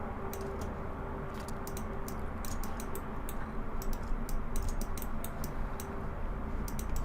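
Computer keyboard and mouse clicking in irregular clusters of quick keystrokes, over a steady low hum.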